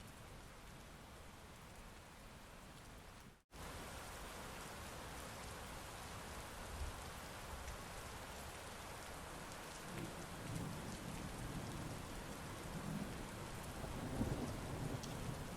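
Heavy rain falling steadily, with low thunder rumbling from about ten seconds in and growing toward the end. The sound cuts out for an instant a few seconds in.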